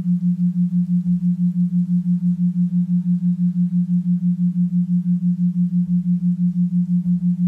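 A single low, steady tone that pulses evenly, about five times a second, as a sustained drone.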